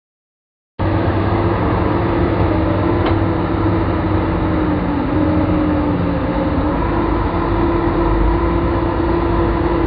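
Heavy construction machine's diesel engine running steadily: a constant drone with a steady whine over it, starting about a second in.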